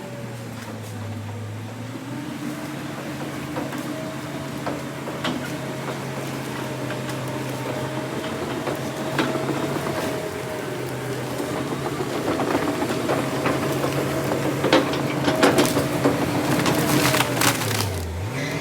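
Heavy diesel earthmoving machine's engine running steadily under load, with wood cracking and splintering as logs are handled, the snaps coming thicker in the second half. The engine pitch dips briefly near the end.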